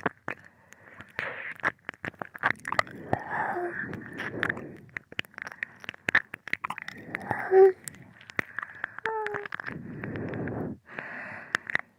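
Close-up binaural ear-licking mouth sounds: wet licking and smacking with many irregular sharp clicks of tongue and lips, over soft breathy noise.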